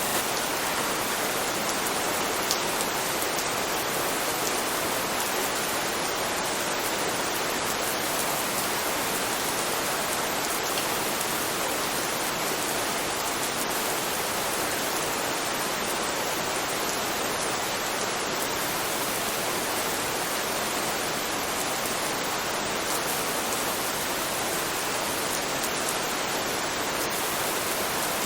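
Steady rain, an even hiss of falling water with a few faint drop ticks.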